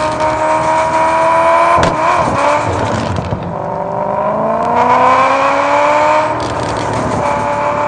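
Car engine and exhaust accelerating through the gears: the engine note climbs steadily, drops at a gear change about two seconds in, climbs again, and drops at another change a little after six seconds before rising once more.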